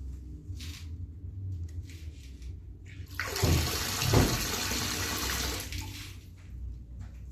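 A loud rushing noise that swells up about three seconds in and dies away near six seconds, with a low rumble under its start.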